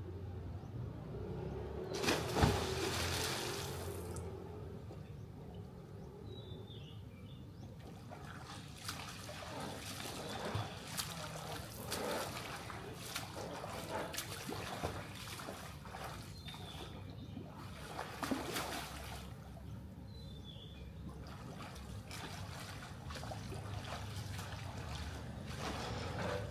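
Swimming-pool water splashing and trickling, with a louder splash about two seconds in and a run of shorter splashes through the middle.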